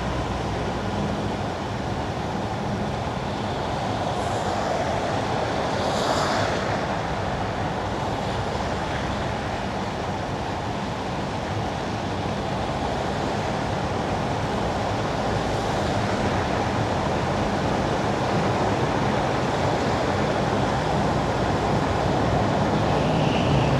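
Car tyres hissing on wet winter asphalt with steady road noise, and a brief swish of passing traffic about six seconds in.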